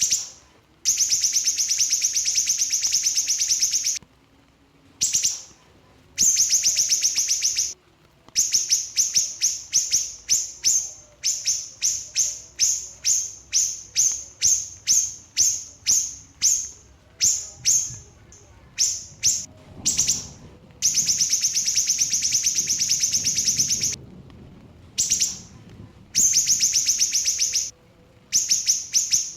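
Small siri-siri bird singing in rapid 'nembak' bursts. Long, dense trills of very fast high notes alternate with runs of separate sharp chirps, about two or three a second.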